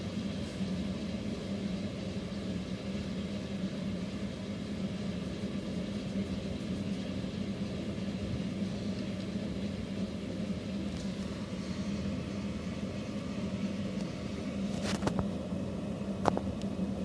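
A steady low mechanical hum, with two short clicks near the end.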